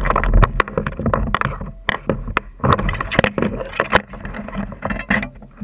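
Irregular knocks and clatter on a fishing kayak at sea, with water noise and wind rumbling on the microphone.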